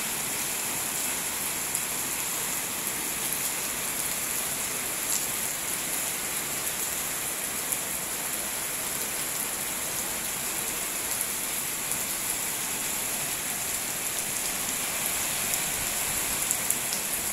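Steady rain falling on surfaces, an even hiss with scattered sharper drop ticks.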